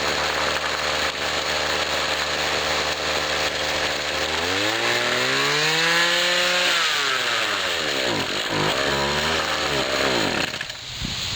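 A 1997 Husqvarna 24cc two-stroke string trimmer engine idles steadily, then is throttled up. It revs up without bogging, then the revs fall back and waver before dropping away near the end. The carburetor has a freshly replaced metering diaphragm: acceleration is better, but the carb tune still needs adjusting.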